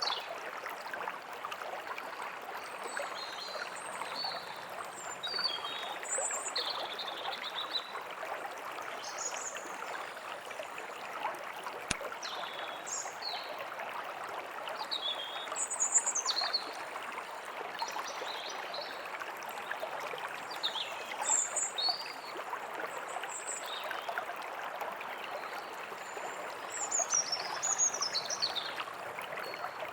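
Steady rushing of a small forest stream, with songbirds calling over it in short high chirps and trills every second or two.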